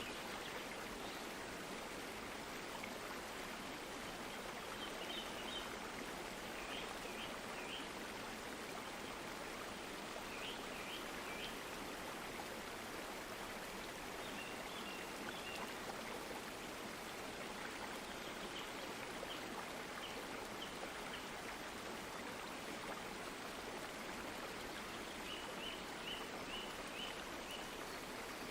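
Stream water running steadily, an even rushing sound. Clusters of short high chirps sound faintly over it every few seconds.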